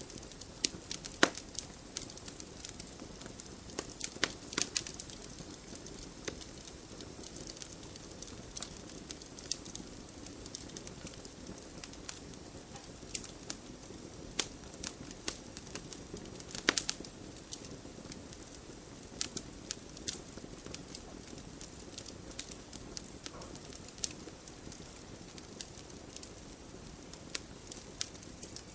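Wood fire burning in a fireplace, crackling with irregular sharp pops over a soft steady rush of flame.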